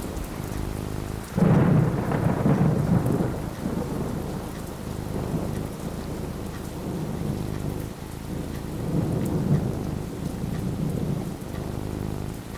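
Thunderstorm: steady rain with a sudden clap of thunder about a second and a half in that rumbles on for a couple of seconds, then a second, softer roll of thunder later.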